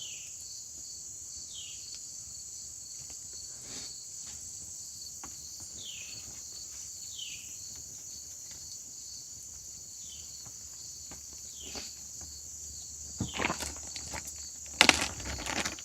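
A steady, high-pitched chorus of crickets, with a short falling call repeating every second or two and scattered faint clicks. Louder knocks and clatter of handling come in near the end.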